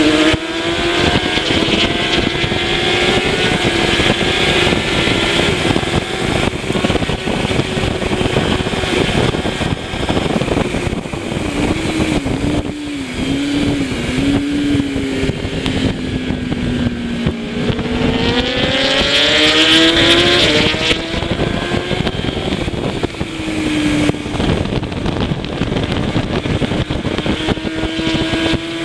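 Kawasaki ZX-10R superbike's inline-four engine at race speed, over heavy wind noise. About twelve seconds in its pitch dips and jumps in quick blips as it downshifts, then it climbs steadily as the bike accelerates again.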